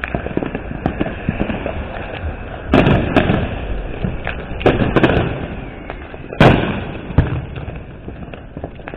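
Fireworks going off: several sharp bangs, the loudest about six and a half seconds in, with scattered smaller pops and crackles between them.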